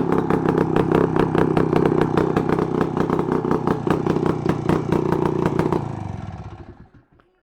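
IZh Planeta-5 motorcycle's single-cylinder two-stroke engine running steadily with an even, rapid firing beat on its first run after a full engine rebuild. The sound dies away about six seconds in.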